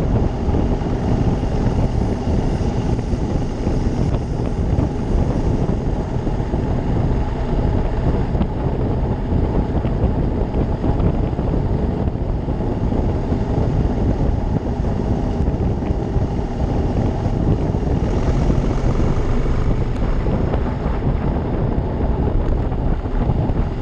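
Ducati Monster 620 motorcycle being ridden at a steady speed: a steady rush of wind on the microphone over the running engine.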